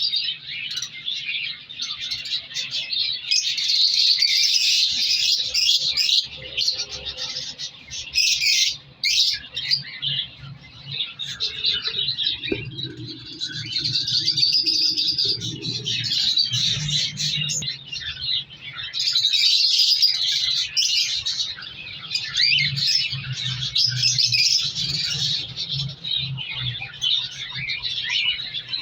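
Cockatiels chirping and chattering continuously, many quick overlapping calls, with a faint steady low hum underneath.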